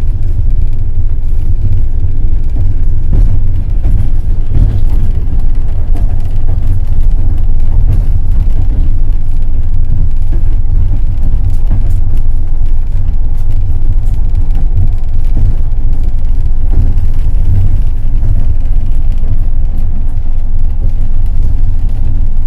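Passenger train carriage running on the line: a loud, steady low rumble, with the clicking of wheels over the rails scattered through it.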